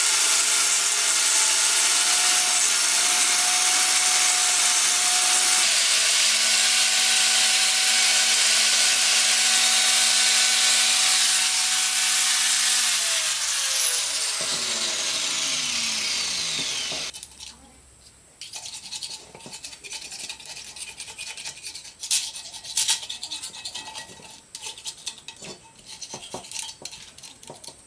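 Angle grinder working on metal with a loud, steady abrasive hiss over its motor whine. About 13 seconds in it is switched off and winds down, its pitch falling for a few seconds until it stops, followed by scattered light clicks and knocks of parts being handled.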